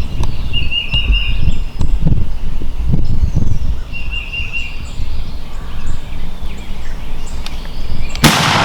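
Birds chirping over a steady low rumble, then a single loud shotgun blast near the end as the hunter shoots the turkey.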